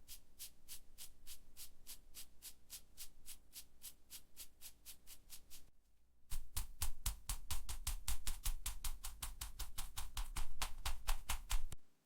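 Fingernails tapping on a makeup palette in an even run of crisp taps, about four or five a second. After a brief pause about six seconds in, a louder, faster run of about eight taps a second follows and stops suddenly near the end.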